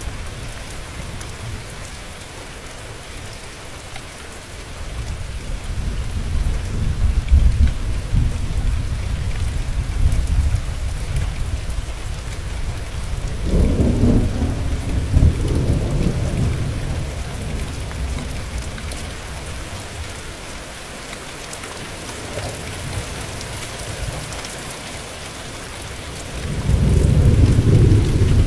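Steady rain falling, with rolling thunder: deep rumbles swell about five seconds in, again around the middle, and loudest near the end.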